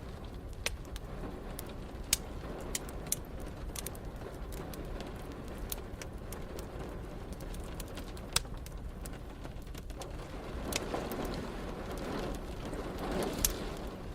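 Wood fire crackling, with irregular sharp pops, over a steady rain background. The background swells louder for a few seconds near the end.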